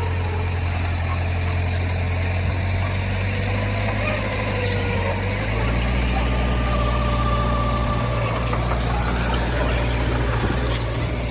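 Heavy diesel engine of earthmoving equipment running steadily with a deep hum, growing a little louder and heavier about halfway through as it takes more load.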